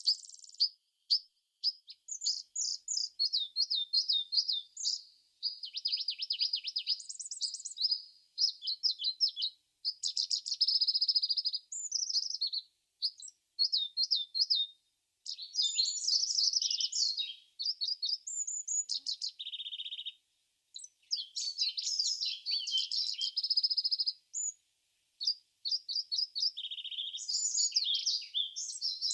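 Songbirds singing: high, rapid chirps and trills in phrases of a second or a few seconds, with short pauses between them.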